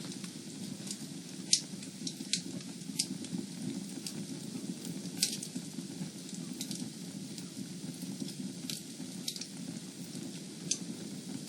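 Fire in a fireplace crackling, with a steady low rumble of flames and frequent sharp pops scattered irregularly throughout. The loudest pops come about one and a half seconds in and about five seconds in.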